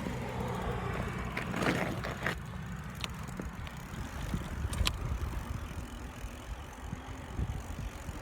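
Mountain bike being ridden, with steady low wind rumble on the microphone and a few sharp clicks and rattles from the bike.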